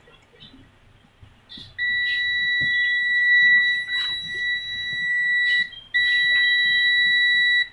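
Steady high-pitched electronic beep from electronics-repair bench equipment. It starts about two seconds in, breaks off briefly near six seconds, then sounds again, with a few small clicks over it.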